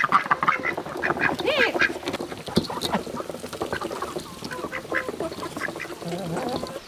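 Farm animals calling: many short, overlapping calls, busiest in the first half.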